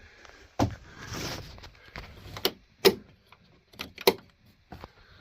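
Handling knocks and clicks inside a small boat cabin: about five sharp knocks spread over the few seconds, with a brief rustle about a second in.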